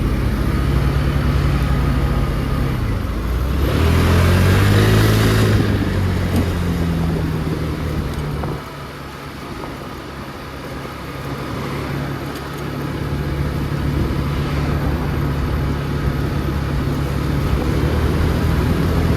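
Motor scooter's engine running while riding in traffic, with road and wind noise. About four seconds in, a louder engine note swells and falls away; around eight seconds in the engine drops quieter for a few seconds, then picks up again.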